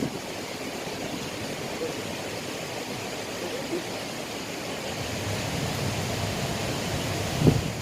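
Steady rushing of a small river's flowing water. A single dull knock comes near the end.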